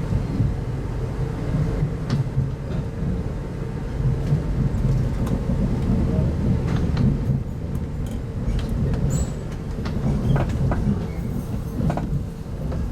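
Train ride heard from inside a 25T-series passenger coach: a steady low rumble of the running gear on the track, with a steady hum and scattered light clicks and knocks.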